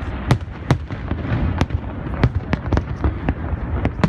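Aerial fireworks shells bursting in quick, irregular succession: about ten sharp bangs in four seconds over a steady background rumble.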